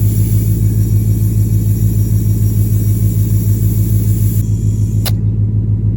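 Portable tire inflator's piston compressor running steadily while pumping air into a car tire, a loud, fast-pulsing low hum. There is a single sharp click about five seconds in.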